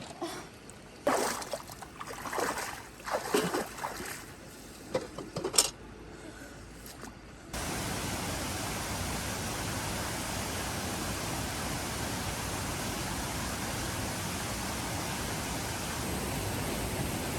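Scattered short, irregular sounds with one sharp knock, then a steady, even rush of water that starts abruptly about seven and a half seconds in and holds to the end.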